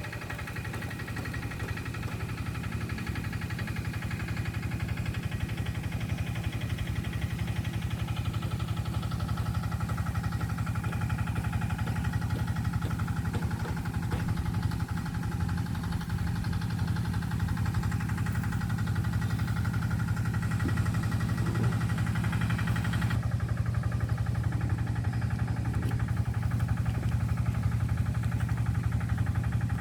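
An engine running steadily at idle: a constant low hum with a fast even pulse. The higher hiss drops away abruptly near the end.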